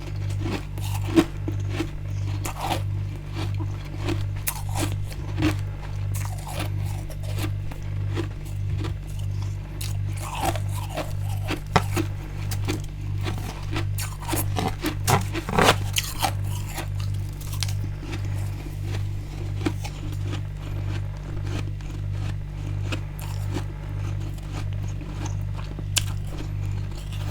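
Crunching bites and chewing of freezer frost and ice from a freezer's edges and bottom, in many short, crisp strokes with a few louder bites. Under them runs a low hum that pulses about one and a half times a second.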